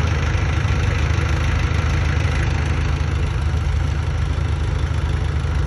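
A vehicle engine running steadily at idle: a low, even, pulsing rumble.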